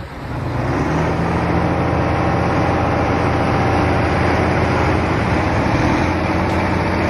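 A heavy vehicle's engine running steadily, its level rising over the first second and then holding even.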